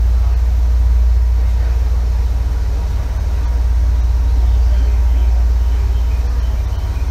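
Running sound inside an Izukyu 8000 series (ex-Tokyu 8000 series) electric motor car, KuMoHa 8157, moving along the line: a loud, steady low rumble of wheels on rail and the car's running gear.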